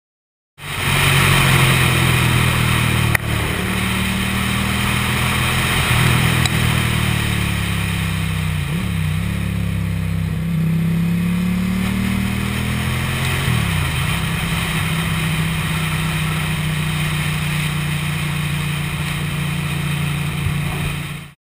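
Ducati motorcycle engine running on the move, its pitch dropping and climbing back twice midway through. There is a sharp click about three seconds in.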